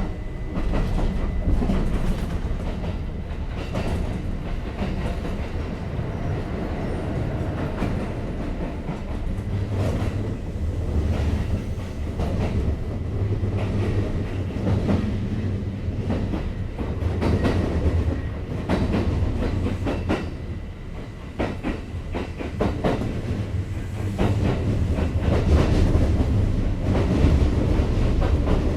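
Kintetsu 5800 series electric train running at speed: a steady low rumble with the clickety-clack of wheels knocking over rail joints. It eases slightly about two-thirds of the way through, then grows louder near the end.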